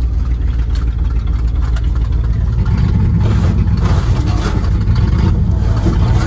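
1971 Ford Highboy truck's engine running under load, revving up about halfway through as the two-wheel-drive truck tries to pull through deep snow and can go no further.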